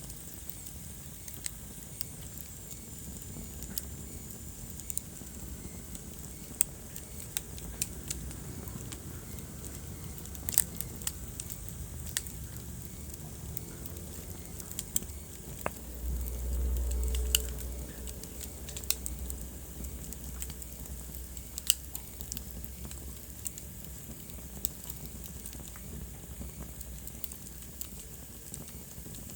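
Wood fire burning in a fireplace: irregular sharp crackles and pops over a low steady rumble, with the rumble swelling for a couple of seconds a little past halfway.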